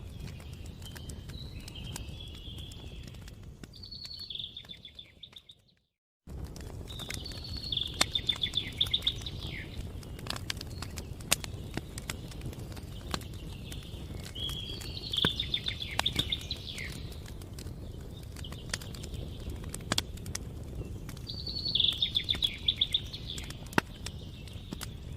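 Campfire crackling with scattered sharp pops over a low rumble, while a songbird sings short trilled phrases every few seconds. About five seconds in the sound fades out to silence for a moment, then comes back abruptly.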